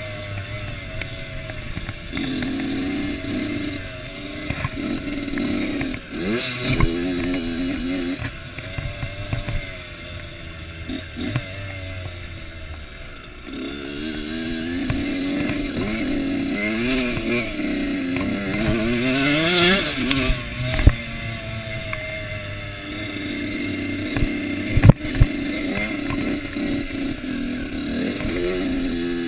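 Kawasaki KX85 two-stroke dirt bike engine repeatedly revving up and dropping back as it goes through the gears, with a few sharp knocks in the second half.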